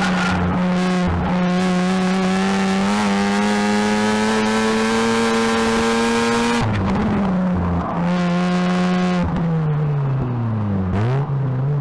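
Mazda RX-8's two-rotor rotary engine at high revs through an HKS Hi Power catback exhaust, with a buzzy, steady, high-pitched note. The pitch climbs slowly through a gear, breaks off sharply for a shift about two-thirds of the way in and comes back lower. It then drops as the car slows and climbs again near the end.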